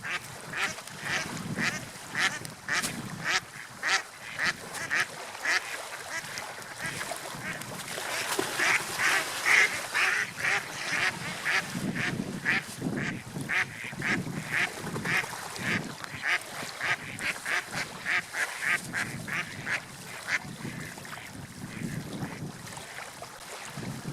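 Ducks or geese calling over and over in short calls, about two or three a second, that stop a few seconds before the end. Underneath is a low wash of water.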